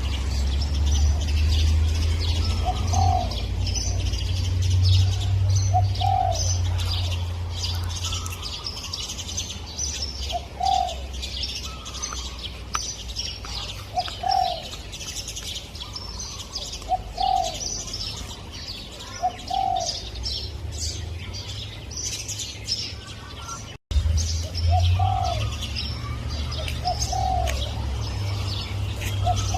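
Spotted dove cooing, short low notes repeated every two to three seconds, over constant high twittering of smaller birds and a low rumble. The sound cuts out for an instant about three-quarters of the way through.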